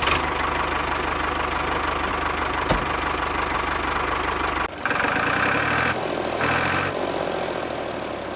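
A small motor running steadily with a fast, even buzz. A little past halfway the sound shifts, and a higher whine comes and goes twice.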